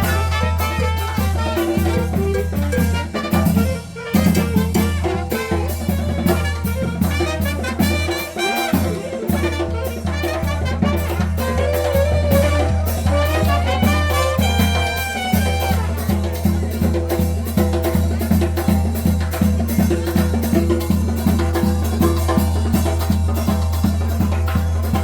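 Street brass band playing, trumpets carrying the tune over a steady beat of drums and percussion, with a short dip in the music about four seconds in.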